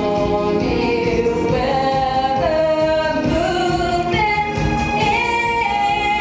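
A group of female voices singing a pop song together, holding and sliding between sustained notes, over musical accompaniment.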